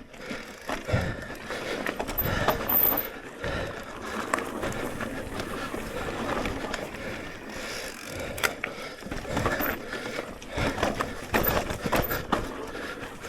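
Electric mountain bike rolling over a rock garden: continuous tyre rumble on rough ground with many knocks and rattles from the bike as the wheels hit rocks.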